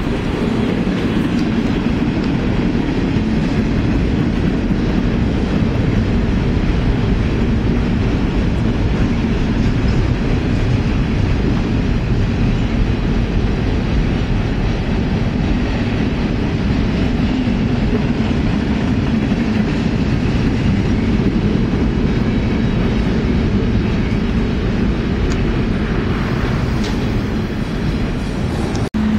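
Train passing below: a steady rumble with a constant low drone, loud throughout.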